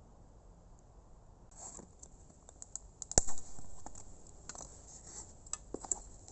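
Oak Swedish torch (a split log burning from the inside) crackling: sparse sharp pops and snaps with one loud snap about three seconds in.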